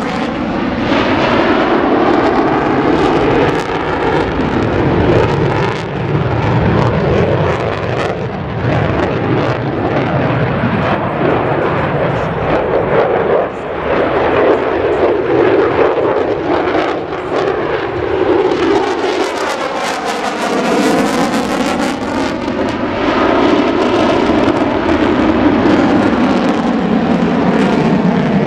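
Lockheed Martin F-22 Raptor's twin Pratt & Whitney F119 afterburning turbofans running loud during a demonstration flight. The jet noise swells and fades with a sweeping, phasing swish as the jet passes, most marked about two-thirds of the way through.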